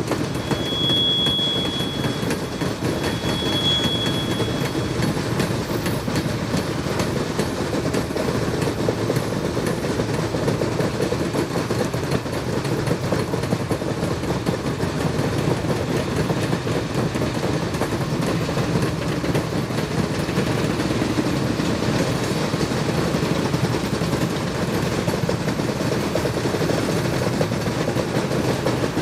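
A 600 hp ALCo S1 diesel switcher working under load as it moves a cut of loaded cars, with a steady low rumble and rail noise throughout. Two brief, thin high squeals come in the first few seconds.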